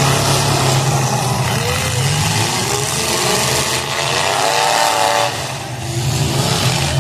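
Several demolition derby cars' engines running and revving together, a loud, fluttering rumble, with one engine rising in pitch about four seconds in.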